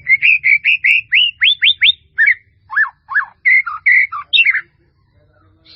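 A bird calling loudly in a quick run of short chirped notes, each sweeping up in pitch and coming faster. This is followed by a slower string of varied notes, some dipping down and up in pitch, that stops about four and a half seconds in.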